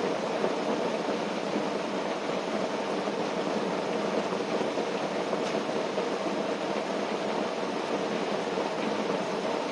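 Steady rain pattering on a tent, a dense even hiss with no let-up.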